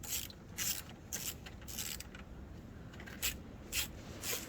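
Ratchet wrench clicking in short strokes, roughly two a second with a brief pause midway, as a bolt on the go-kart's battery box is tightened down.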